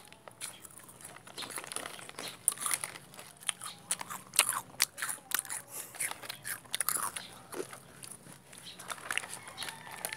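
Crunchy food being bitten and chewed close to the microphone, with irregular sharp crunches, several a second at times.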